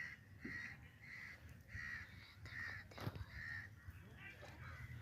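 A bird calling six times in an even series, about two-thirds of a second apart, stopping about three and a half seconds in.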